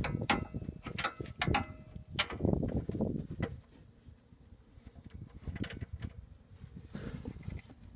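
Metal tools and car parts clinking and knocking, some strikes ringing briefly, over handling noise. It is busiest for the first three and a half seconds, then drops to a few scattered clicks.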